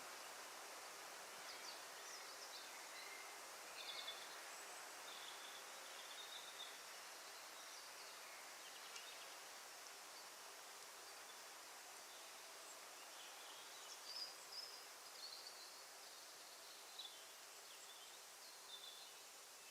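Quiet woodland ambience: a faint steady hiss with scattered short bird calls, a few clusters of chirps.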